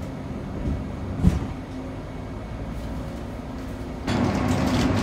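Steady low rumble of a moving Frecciarossa high-speed train heard from inside the passenger car, with a single soft knock about a second in; the running noise grows louder near the end.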